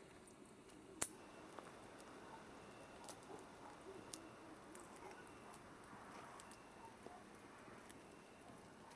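Campfire crackling: a faint hiss of burning wood with scattered sharp pops and snaps, the loudest one about a second in.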